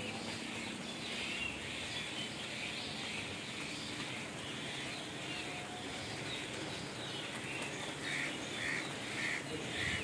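Birds calling and chirping, with one call repeated about twice a second over the last couple of seconds, over a steady background hiss.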